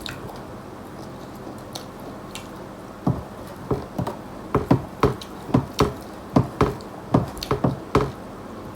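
Close-miked eating: a run of about fifteen short, irregular chewing and mouth-smacking sounds, starting about three seconds in, over a steady low background hum.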